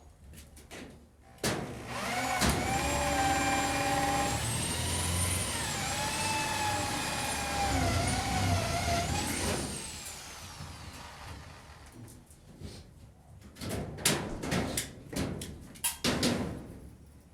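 A motor starts suddenly and runs for about eight seconds with a high whine that wavers up and down in pitch, then winds down. A few separate knocks follow near the end.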